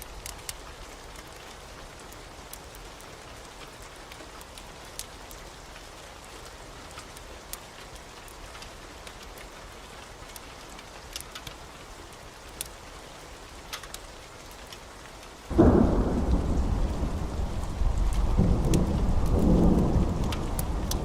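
Steady rain with scattered sharp ticks. About three-quarters of the way through, thunder breaks in suddenly and rolls on as a loud, low rumble.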